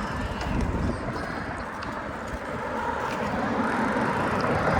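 Wind buffeting the microphone over steady road noise while moving along a street.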